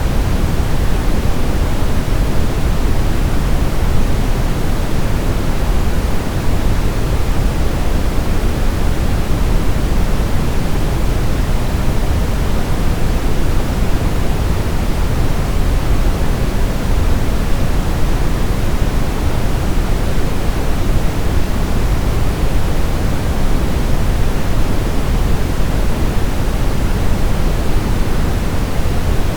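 Steady, loud brown noise: an even rumbling hiss, deepest at the bottom and thinning toward the top, with no changes or events.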